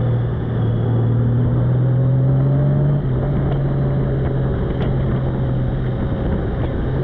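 Motorcycle engine running at a steady cruising speed, a constant low hum over heavy road and wind noise, with a slight drop in level about three seconds in.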